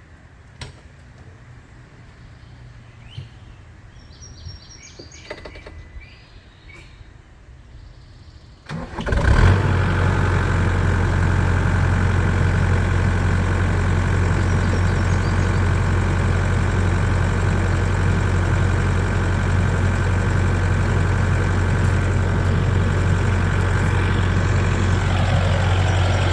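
Birds chirp faintly, then about nine seconds in the New Holland L225 skid steer's diesel engine cranks briefly and catches on a cold start. It then idles steadily and loudly.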